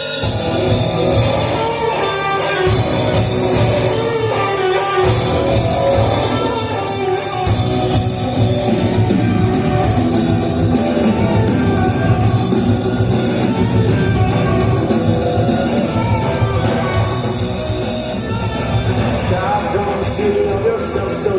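Live rock band playing at full volume, with drums, electric guitar and singing.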